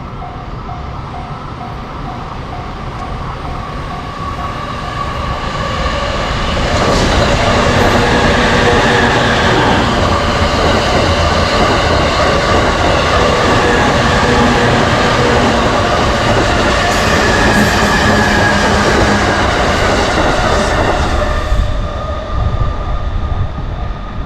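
Japanese railway level-crossing alarm ringing in a quick, steady repeating ding, then an electric commuter train passes close by for about fifteen seconds, loud, with a whine over the rumble of the wheels, before fading away near the end.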